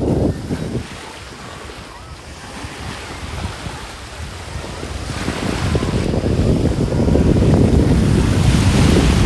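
Wind buffeting the microphone with waves washing on the shore, a low noisy rumble that eases for a few seconds, then grows louder again from about halfway.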